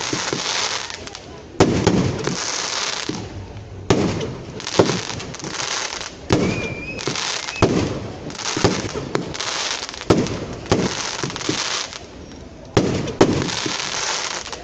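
Fireworks going off in a rapid series: about a dozen loud bangs, roughly one a second, each followed by a hiss that lasts up to a second.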